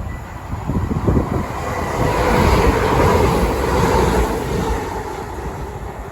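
A train passing on the line, its rumbling noise swelling to a peak in the middle and then fading away, with wind buffeting the microphone.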